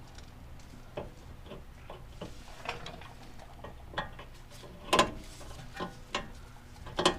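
Metal suspension parts and hand tools being handled: irregular light clicks and knocks, with the two loudest about five seconds in and near the end.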